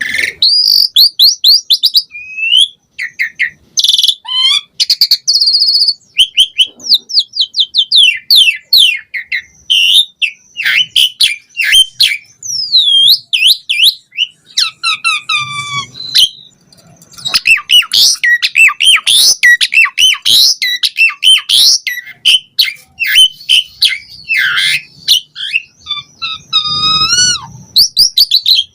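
Asian pied starling singing loudly and without a break: a fast, varied jumble of gliding whistles, chirps and rapid chattering runs.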